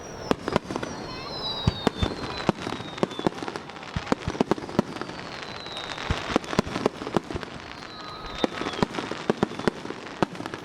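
Aerial fireworks going off in a rapid string of sharp bangs and crackles. Three thin falling whistles run through the bursts, near the start, in the middle and about eight seconds in.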